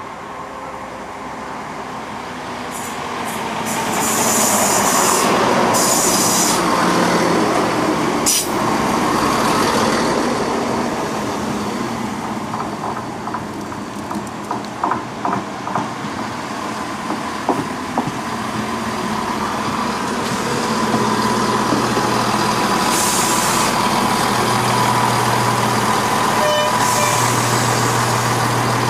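A diesel train moving through the station, its engines and wheels on the rails making steady noise. There are short hisses of air near the start and again late on, and a run of short clicks about midway.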